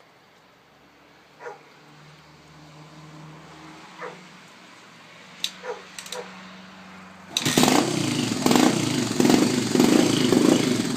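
A few faint clicks, then about seven seconds in the Yamaha XT600's single-cylinder engine fires and keeps running, loud and uneven. The engine is built with a 97 mm JE piston, a stage 2 camshaft and an S&S Shorty carburettor.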